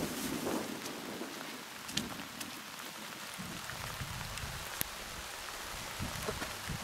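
Steady rain falling, an even hiss with scattered individual drops striking a surface, a couple of them sharper about two seconds in and near five seconds.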